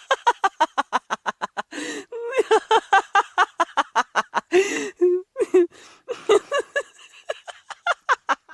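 A person laughing hard, with rapid, high-pitched ha-ha pulses of about seven a second, broken twice by gasping in-breaths.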